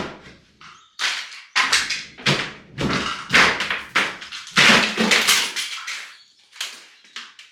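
Bathroom demolition: a rapid run of heavy knocks, cracks and crashing as old fittings and lining are broken and pulled away, then a few lighter knocks near the end.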